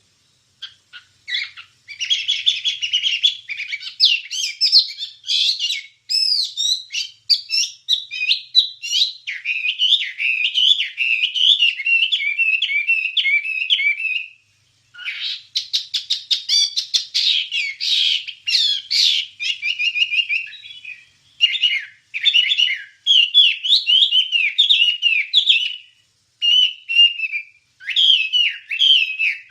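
Wambie bird singing a long, varied, fast song of chattering phrases, quick trills and whistled notes, with brief pauses between bursts.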